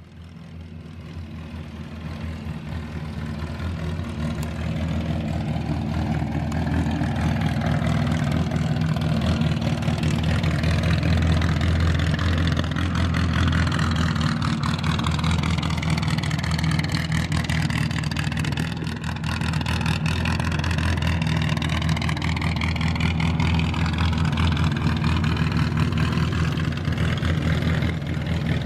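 1965 MGB Mk1 race car's rebuilt 1798cc four-cylinder pushrod engine, fed by twin SU carburettors, idling steadily; it grows louder over the first few seconds, then holds an even note.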